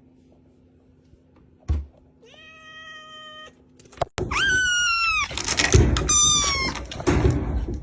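A cat meowing repeatedly in drawn-out calls that fall in pitch, one softer call first and then several louder ones from about four seconds in. A single thump comes just before the first call.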